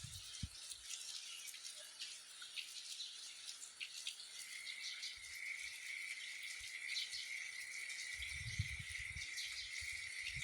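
Outdoor ambience: a steady, high insect trill starts about four seconds in, over a hiss with many small scattered ticks. Low thumps come near the end.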